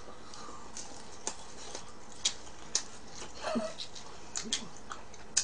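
A person chewing fried chicken: scattered sharp wet mouth smacks and crunchy clicks, roughly one every second.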